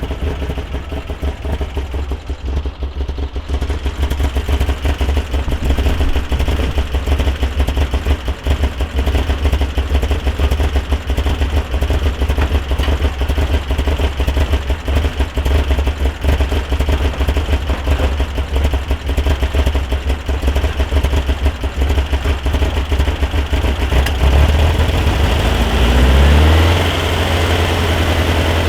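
Modified 1641cc air-cooled flat-four of a Volkswagen Super Beetle, running through a merged header and single quiet-pack muffler, idling steadily, then revved briefly near the end. The owner is asking what causes a noise it makes once warm, one that sounds like pre-detonation at cylinder three but does not change when the timing is adjusted.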